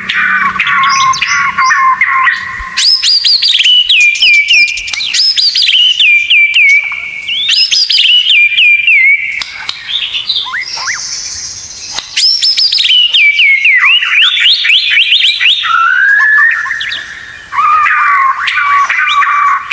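White-rumped shama (murai batu) singing loudly. Its song runs through fast series of sharp, down-slurred whistles, with chattering phrases at the start and again near the end.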